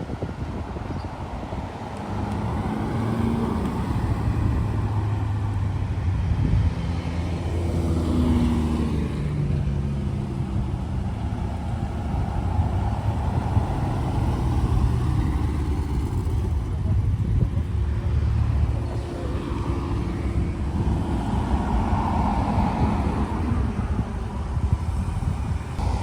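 Car engines running with a steady low rumble, their pitch shifting slightly as they move.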